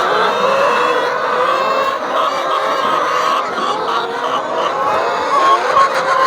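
A large flock of chickens clucking and chirping all at once, a steady, dense din of overlapping calls.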